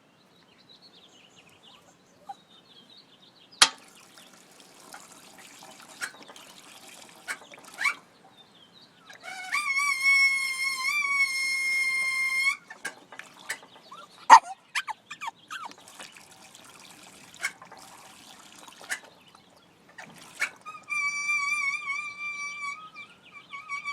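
Water fountain squealing: two long, steady, high whistling tones with a wavering start, the first about nine seconds in lasting around three seconds, the second from about twenty seconds in. Between them come sharp clicks and knocks over a faint trickle of water.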